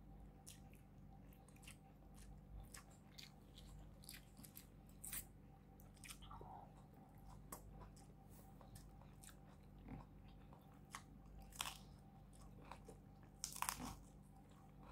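Faint close-up chewing of food, with soft crunches and wet mouth clicks, and a louder crunchy bite into a green vegetable near the end.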